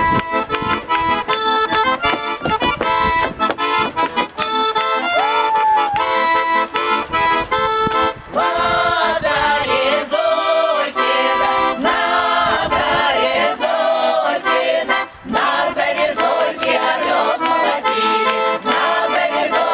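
Accordion music in a traditional style: steady chords for the first half, then a melody with wavering notes from about eight seconds in.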